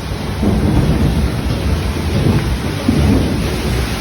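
Heavy tropical-storm downpour with a low rumble of thunder that rolls in about half a second in and lasts about three seconds.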